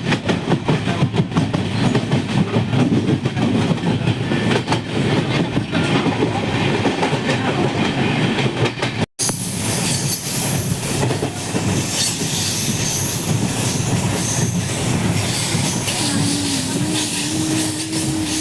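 Steady rumbling and rattling of a moving vehicle, likely a train. It breaks off for an instant about nine seconds in, then resumes with more hiss.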